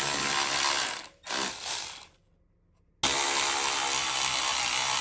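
Ratchet wrench clicking as the radiator's mounting bolts are backed out. It comes in stretches that stop and start abruptly, with a short silence about two seconds in.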